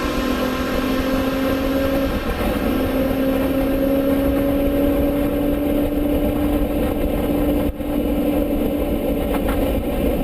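Honda CB1000R's inline-four engine running under way, its note rising slowly and steadily, with a momentary break a little under 8 seconds in.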